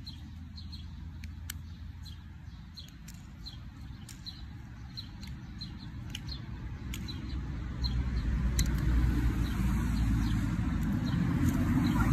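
A bird calling with short high chirps, about two a second, over a low rumble that grows louder about two-thirds of the way through, with a few faint clicks.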